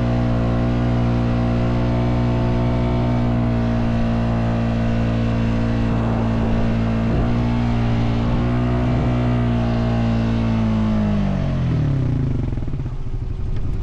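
ATV engine running at a steady speed, then winding down in pitch over about two seconds near the end.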